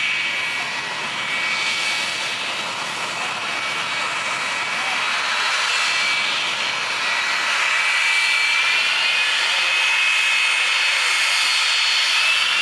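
Jet turbine engine of a drag-racing jet vehicle running, a steady rush with a high whine over it; the whine rises in pitch a little about two-thirds of the way through and again near the end.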